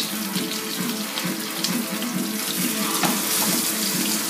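Floured shrimp sizzling in hot olive oil in a frying pan as they are laid in: a steady hiss with fine crackles throughout.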